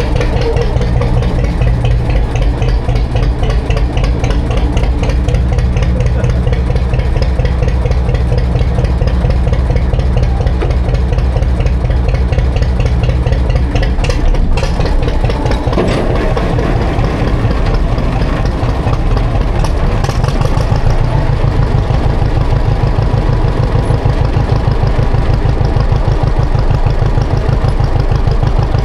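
Classic John Deere tractor engine running steadily with an even pulsing beat while plowing snow. The engine note shifts about halfway through and again a few seconds later.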